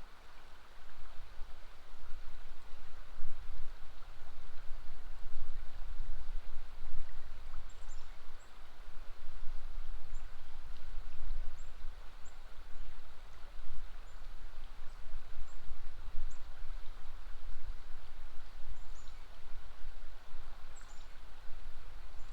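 A river flowing in a steady rush, with short, high bird chirps scattered through the later part.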